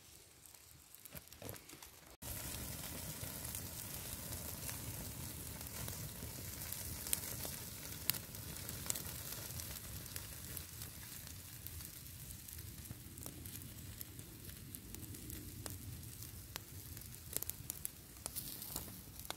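Food frying in a pan: a steady sizzling hiss with scattered crackles and pops, starting abruptly about two seconds in after a quiet stretch.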